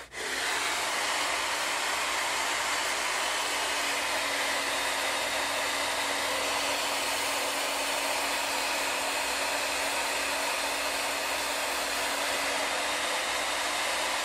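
Handheld hair dryer running steadily: an even rush of blowing air with a steady low motor hum under it.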